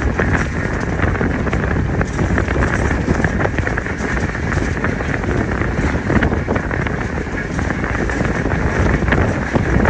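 Moving passenger train running along the track: a steady rumble of wheels on rails with frequent short clicks, and wind buffeting the microphone.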